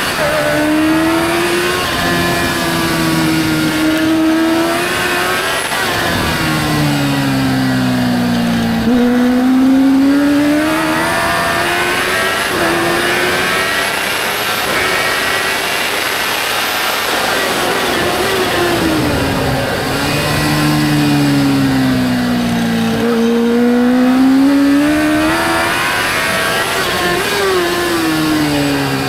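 Kawasaki Ninja H2R's supercharged inline-four engine at race pace on a track lap, heard onboard, its pitch repeatedly climbing under acceleration and sweeping back down as the rider shifts and brakes for corners.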